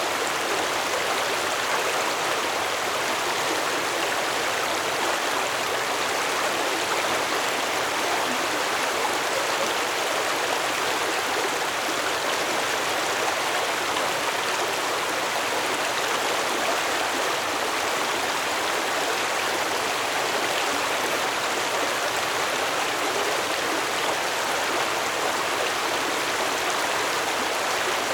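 Stream water flowing in a steady, even rush over its bed.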